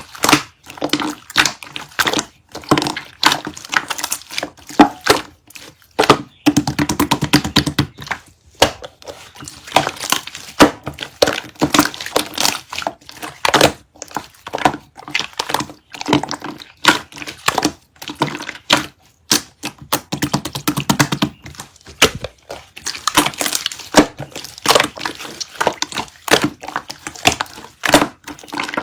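Dense, irregular crackling and crunching sounds, many sharp clicks in quick succession with occasional heavier thunks.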